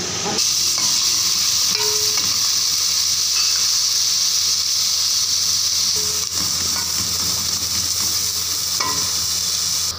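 Spiced masala frying in hot oil in a pot: a loud, steady sizzle that starts abruptly about half a second in, with a wooden spoon stirring through it.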